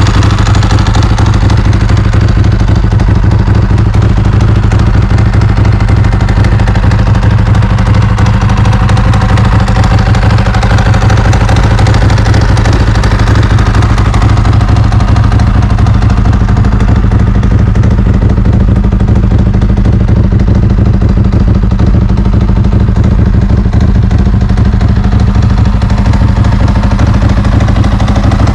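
Ducati 916's 90-degree V-twin engine idling steadily, warming up after a cold start.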